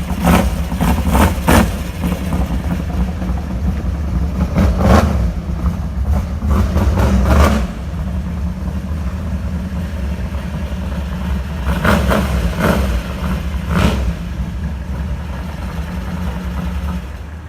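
Car engine running with a steady low drone, with a few brief revs in the first two seconds and again about five, seven, twelve and fourteen seconds in.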